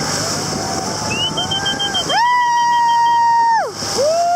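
Boat passengers whooping long, high 'woo' calls, several voices overlapping, each sweeping up, holding, then falling away. Under the first part runs a boat engine's low hum and water noise.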